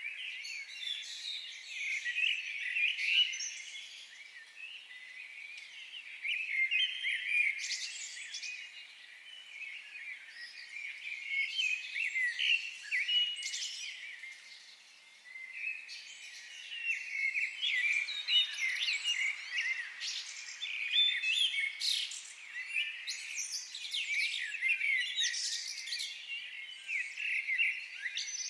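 A chorus of several small songbirds chirping and warbling at once, with a brief lull about halfway through.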